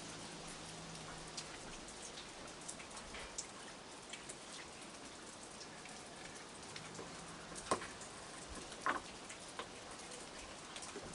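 Steady rain falling, with many small drips and taps of drops landing on nearby surfaces. Two louder clicks come about eight and nine seconds in.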